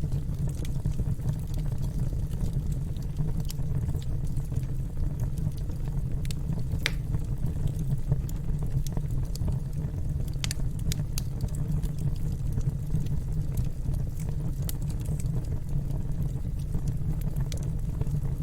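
Wood fire crackling in a fireplace: a steady low rumble of burning with scattered sharp pops and snaps, the strongest about 7 s in and a cluster around 10 to 11 s.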